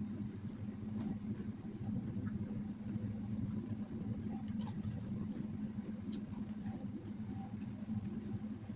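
Close-up eating sounds: steady chewing with scattered small mouth clicks.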